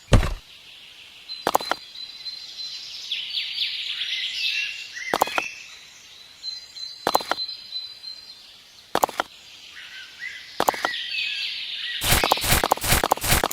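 Birds chirping, with a sharp knock every second or two; near the end a quick run of clicks and knocks.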